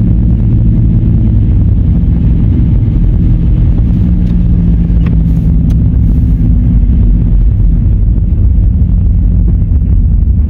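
Steady low rumble of a car's engine and road noise heard from inside while driving, with a few faint ticks in the middle.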